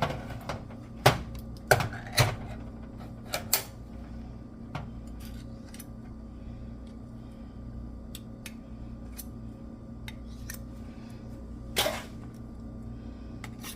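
Kitchen utensil clatter: a few sharp clinks and knocks in the first few seconds and one more near the end as condensed cream of mushroom soup is added to a pot, over a steady low hum.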